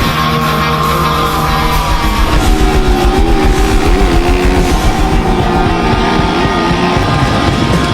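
Hard rock music with distorted electric guitar playing a sustained lead line that drops lower a little over two seconds in and wavers after that.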